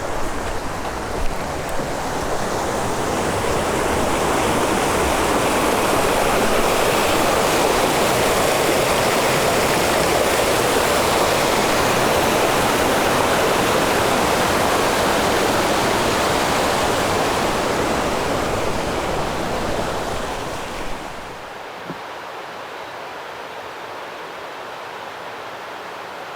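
Rushing water from a stream or waterfall, a steady roar that swells over the first few seconds and drops away abruptly about 21 seconds in, leaving a fainter hiss.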